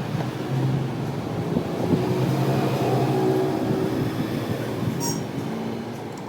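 Engine running steadily with a low hum, and a brief high click about five seconds in.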